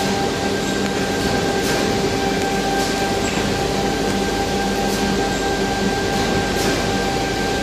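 A power tool running steadily with a constant whine over a loud, even rush of noise, with a few faint clicks.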